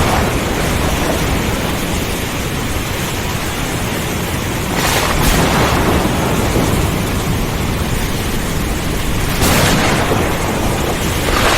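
Steady heavy rain with thunder rumbling low underneath. The sound swells twice, about five seconds in and again near the end.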